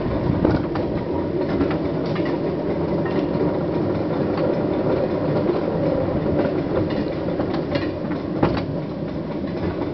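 Small rail trolley rolling along old track, its steel wheels rumbling steadily with irregular clacks over the rail joints, one sharper knock a little past eight seconds in.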